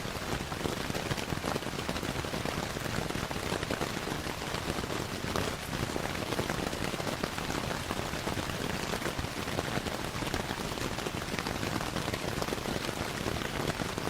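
Steady rainfall, a dense even hiss of drops, with small sharp crackles of a wood fire mixed in.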